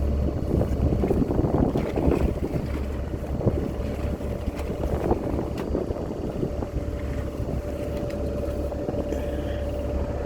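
A steady low engine hum with wind noise on the microphone, broken by scattered light clicks and knocks.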